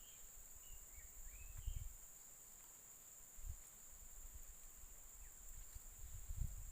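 Tropical forest ambience: a steady high-pitched insect drone, with a few short chirping bird calls in the first two seconds. A few low thumps come about two seconds in, midway and near the end.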